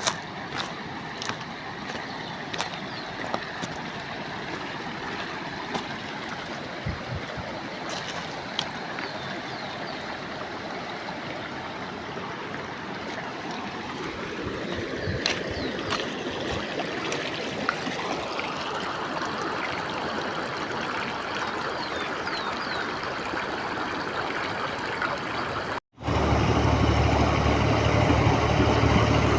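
Flowing water with scattered small clicks, growing fuller and louder through the second half. After a sudden cut near the end, a steady low engine hum takes over.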